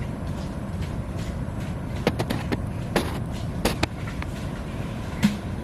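Steady low rumble of wind buffeting the microphone outdoors, with a handful of sharp clicks and knocks about two to five seconds in.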